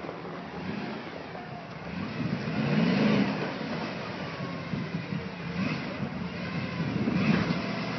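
Jeep engine revving, rising in pitch about two and a half seconds in, then running on with another, smaller rise near the end.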